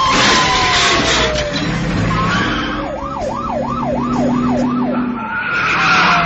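Car chase: tyres screeching with falling squeals and cars running. In the middle a police siren wails rapidly up and down about five times.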